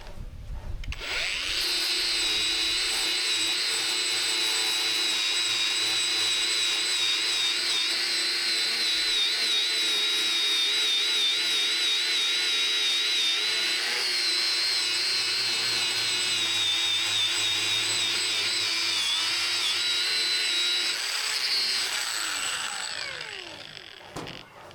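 Electric power tool running steadily with a high whine, starting up about a second in and winding down with falling pitch near the end.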